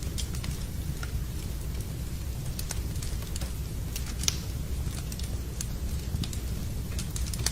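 Wood fire in a fireplace crackling: scattered sharp pops and snaps over a steady low rumble, with one louder pop a little past four seconds in.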